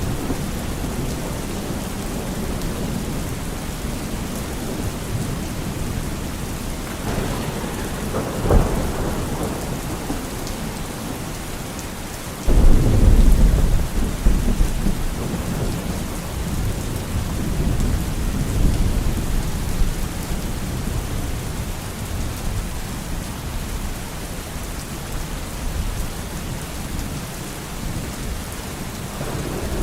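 Steady rain with thunder: a short crack about eight seconds in, then a loud thunderclap a few seconds later that rumbles on for several seconds before easing back under the rain.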